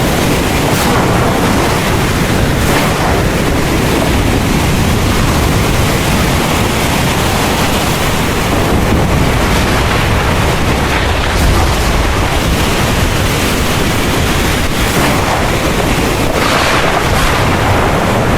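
Heavy rain pouring steadily under a continuous deep rumble of thunder, with a brief brighter surge of noise near the end.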